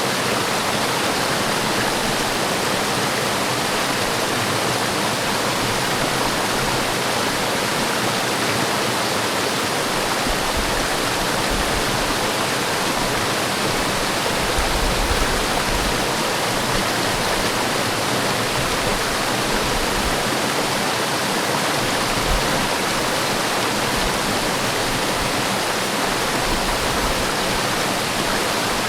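Forest waterfall with water pouring and splashing in a steady, even rush, with occasional low rumbles underneath.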